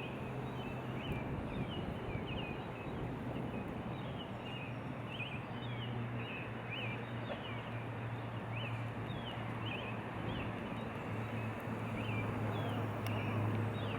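Small birds chirping: short, high, quick chirps repeated irregularly over a steady rushing background noise with a low hum.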